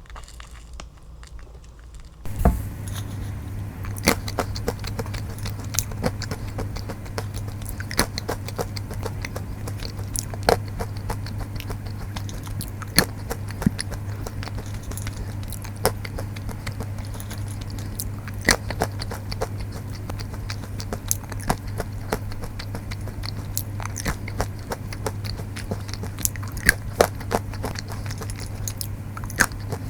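Close-up chewing and crunching of honey roasted peanuts, a steady run of irregular sharp crunches that starts about two seconds in, over a steady low hum.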